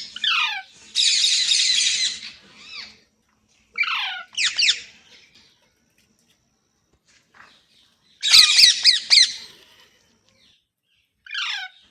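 Pet Indian ringneck parrot squawking in harsh, screechy bouts, with short falling cries in between; the longest squawks come about a second in and again about eight seconds in.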